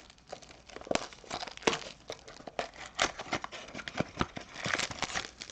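Trading card pack wrappers crinkling and tearing, with irregular clicks and rustles of packs and cards being handled.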